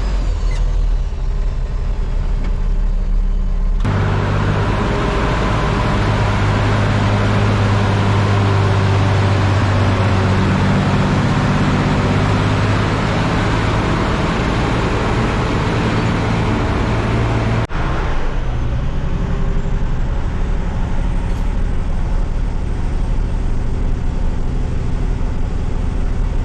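A dump truck's diesel engine running steadily, getting louder with a broad rushing noise from about four seconds in, then dropping back abruptly near eighteen seconds.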